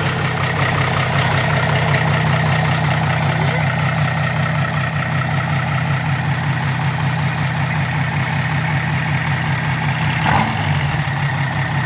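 Isuzu 6BB1 six-cylinder diesel engine running steadily, with its AR50 turbocharger whistling at a steady high pitch. A single short knock about ten seconds in.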